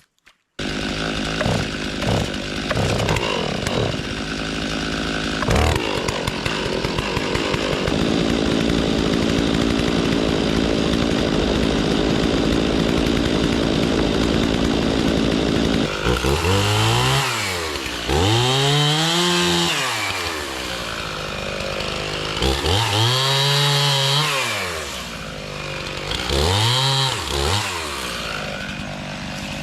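Two-stroke chainsaw running at high speed, then from about halfway revved up and let back down several times, as when the saw is being warmed up.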